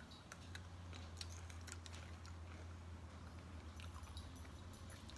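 Two people biting and chewing thin caramel-coated pretzel sticks: faint, scattered crisp crunches over a steady low hum.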